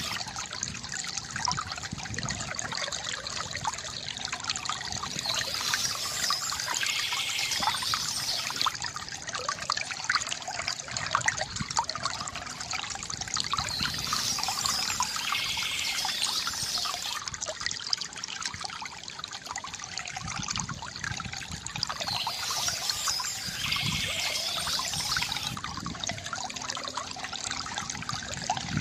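Water trickling and gurgling steadily from a bamboo fountain spout, a constant splashing with small bubbling flickers. A brighter, higher sound swells in about every eight seconds.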